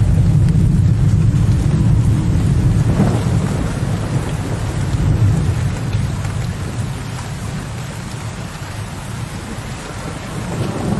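Low, distant thunder rumbling over steady rain. The rumble is heaviest at the start, dies down over the next several seconds, and swells a little again near the end.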